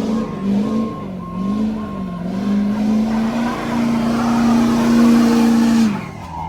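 Pickup truck doing a burnout: the engine revs hard, its pitch rising and falling, then holds at a high, steady pitch while the noise of the spinning tires builds. Both cut off abruptly about six seconds in as the driver lets off.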